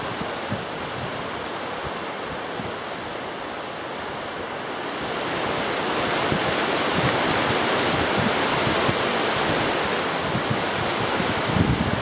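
Strong gusty wind buffeting the microphone: a steady rushing with irregular low rumbles, swelling louder about five seconds in.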